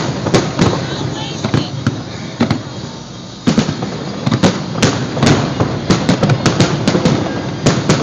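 Aerial fireworks bursting: a few separate bangs, then a lull, then from about three and a half seconds in a rapid barrage of many bangs in quick succession.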